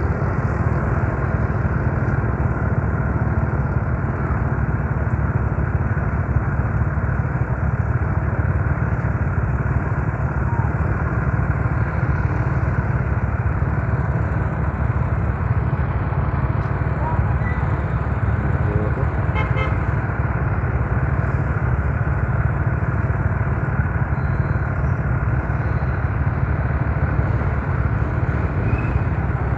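Yamaha Mio Soul scooter being ridden at a steady speed: the engine's running is mixed with a constant rumble of wind and road noise, unchanging throughout.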